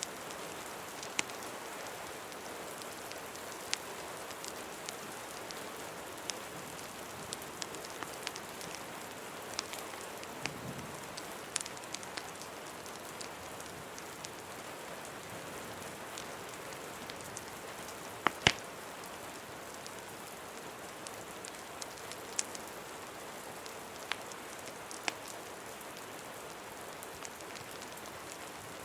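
Steady rain hiss mixed with the sharp pops of a crackling wood fire, a pop every second or two, the loudest pair about two-thirds of the way through.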